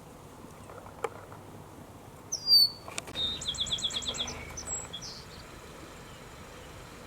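Bird song: a loud, short, high down-slurred note, then a rapid trill of about seven high notes.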